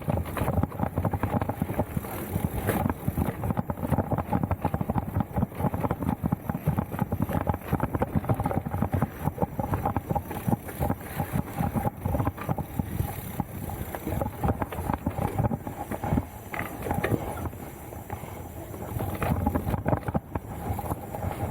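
Mountain bike ridden over rough, technical trail: a continuous clatter of rapid knocks and rattles as it rolls over the bumps.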